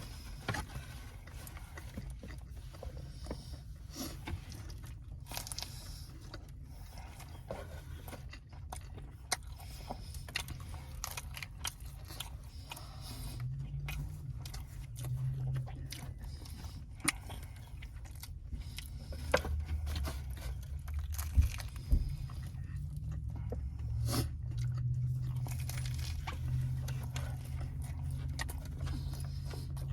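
A person biting and chewing a chicken shawarma wrap, with scattered crunches and small clicks over a steady low hum.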